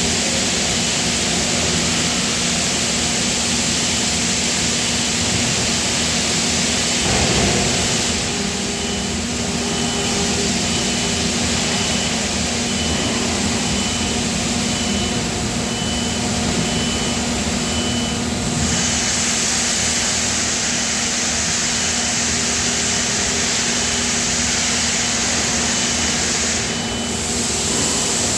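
Steady industrial machinery noise in a die-casting plant: a constant low hum under a loud, even hiss, with the high hiss easing and returning a few times.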